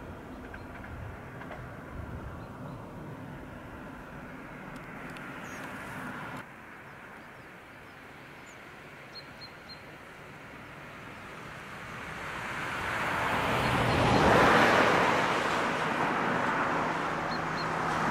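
Rhaetian Railway electric locomotive and its coaches approaching: faint at first, then a swelling rush of wheels on rail and traction noise that grows loud from about halfway in.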